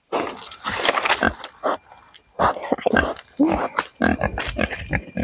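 Pigs grunting and snuffling, a quick irregular string of short grunts.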